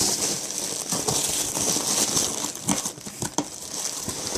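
Hands digging through polystyrene packing peanuts in a cardboard box: a dense rustling and crinkling with a few sharper clicks.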